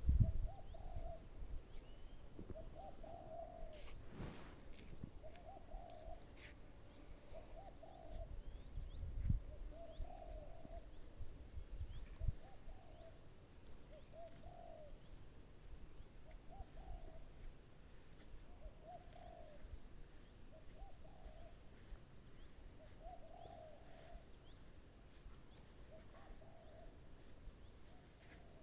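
A bird's short, low hooting note repeated steadily about every one and a half to two seconds, over a constant high-pitched drone.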